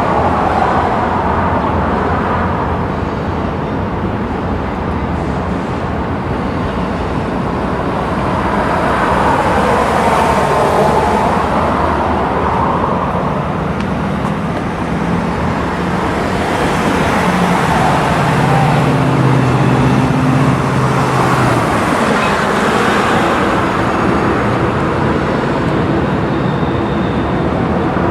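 Steady road traffic going by, vehicles swelling and fading as they pass, over a low engine hum.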